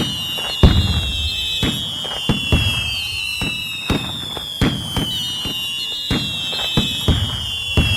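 Fireworks: overlapping shrill whistles that slide down in pitch and start again about every four seconds, with irregular sharp bangs and cracks.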